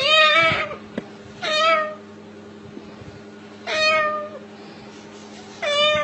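Domestic cat meowing four times, about every one and a half to two seconds, each call sliding slightly down in pitch. A faint steady hum runs underneath.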